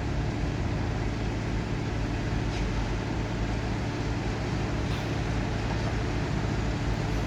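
Flood-drainage water pumps running steadily with a constant low hum.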